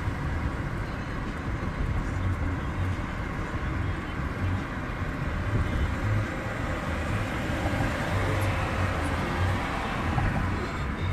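Steady road and engine noise inside the cabin of a moving car, a low rumble under an even hiss.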